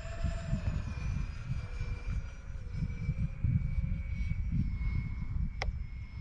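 Twin 64mm electric ducted fans of an RC A-10 jet whining faintly, their pitch stepping slightly with the throttle, over a heavy low rumble of wind on the microphone. A single sharp click comes near the end.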